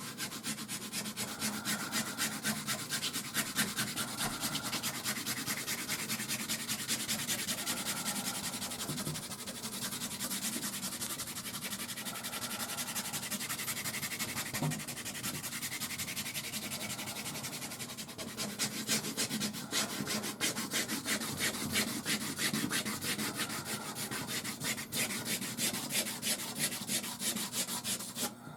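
Soft pastel rubbed across canvas in quick back-and-forth strokes. It starts abruptly, eases off to a lighter rubbing through the middle, grows stronger again, and stops just before the end.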